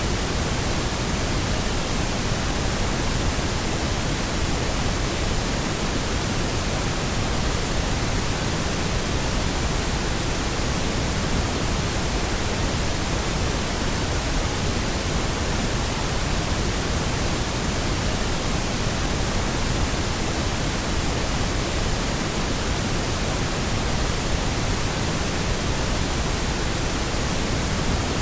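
Steady pink noise: an even, unchanging hiss with no pattern or events.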